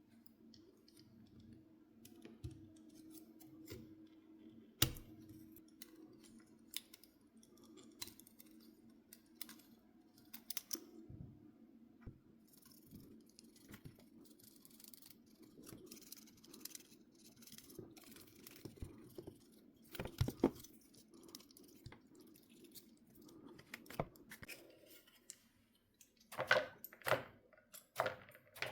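Scattered light clicks and knocks of small hard parts and tools being handled during console repair work, with a few sharper clacks about five seconds in, around twenty seconds and near the end. A faint steady low hum underlies it and fades out shortly before the last clacks.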